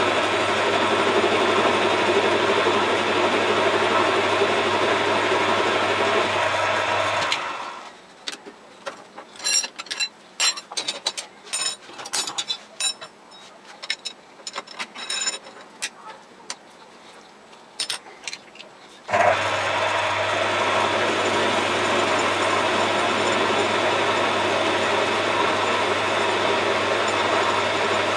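Metal lathe running steadily with a constant low hum. About seven seconds in it stops, and for about eleven seconds there are only scattered metallic clicks and knocks. Then it starts running again abruptly.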